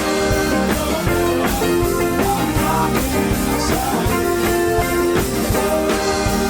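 Live rock band playing an instrumental passage: electric guitars, bass and drum kit over a steady beat, with keyboards.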